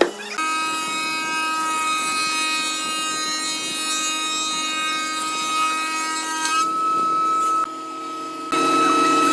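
Electric power tool running on wood: a steady motor whine over the rasp of cutting. It drops off briefly near the end, then comes back louder.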